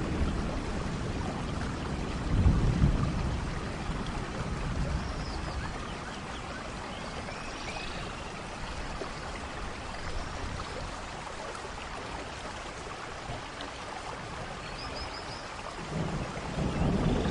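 Steady tropical rain falling, with a low rumble of thunder about two and a half seconds in and another building near the end. A few short bird chirps come through the rain, one a quick run of three notes near the end.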